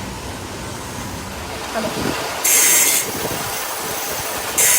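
Two short, loud bursts of hiss, each about half a second long and about two seconds apart, over steady machine noise in the workshop.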